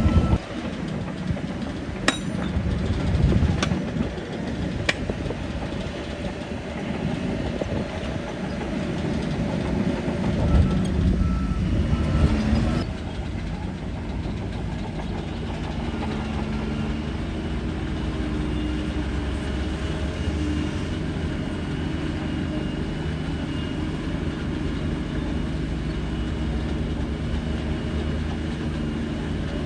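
Bulldozer diesel engine running, rough and loud with a few sharp clanks in the first dozen seconds. About 13 seconds in, it changes abruptly to a steadier, even engine drone.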